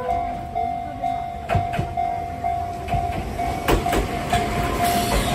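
Enoden electric train running, its wheels clicking over rail joints above a steady rumble, with a steady tone pulsing on and off about twice a second.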